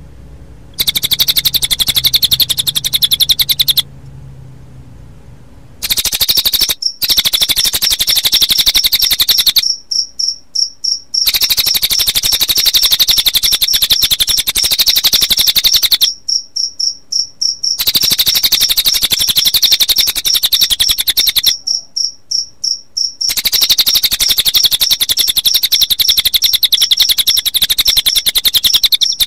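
Cililin bird singing in long bouts of very fast, high trilling. Under it a cricket chirps steadily, and its chirps are heard alone as separate pulses, about five a second, when the bird pauses several times.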